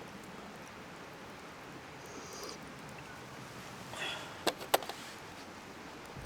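Steady rushing of a nearby stream, with a short rustle about four seconds in and two sharp clicks just after it.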